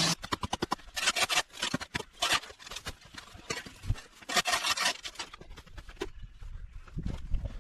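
Irregular scraping and rubbing with sharp clicks and snaps, as of brush or debris being dragged and cleared by hand; a quick run of clicks comes in the first second.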